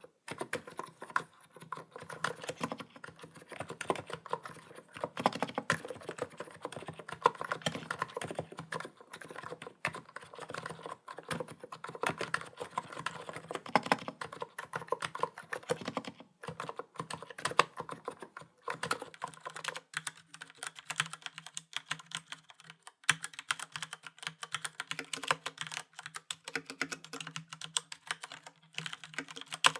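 Continuous typing on computer keyboards: a Niz Plum Atom 68 electro-capacitive keyboard and a Filco Majestouch 2 mechanical keyboard with Cherry MX Brown switches, played for comparison. The keystroke sound changes character about twenty seconds in.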